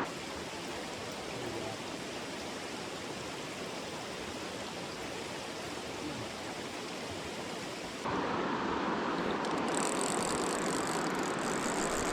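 Stream water rushing steadily. About eight seconds in, it suddenly gets louder and brighter, and near the end a thin high steady tone joins it.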